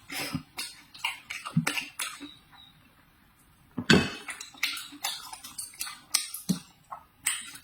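Close-up eating sounds: a string of short crisp crunches and clicks, with a quiet pause in the middle and the loudest crunch about four seconds in.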